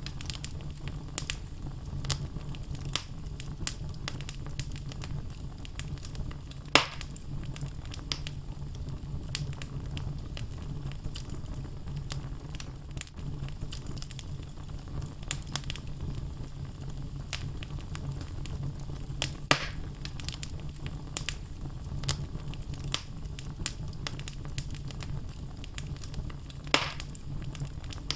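Wood logs burning in a fireplace, crackling steadily over a low rumble, with three louder pops: about seven seconds in, at about twenty seconds, and near the end.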